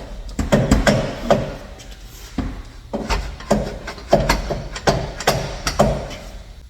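Irregular knocks and clunks, about a dozen, as exhaust pipes are worked and knocked onto an H-pipe under the car.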